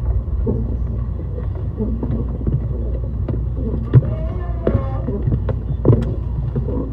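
Steady low rumble inside a JR East E131 series electric train car, broken by scattered sharp knocks, the loudest about four and six seconds in.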